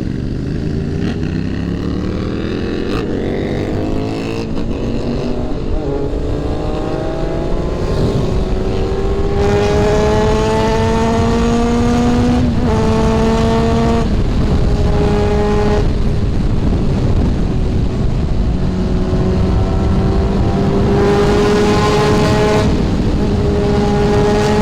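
Honda CBR600RR inline-four motorcycle engine pulling hard, its pitch climbing steadily for about twelve seconds. It then shifts up a few times in quick succession, each shift a brief break and drop in pitch, and settles into a steadier, slowly rising run. Wind rushes over the microphone throughout.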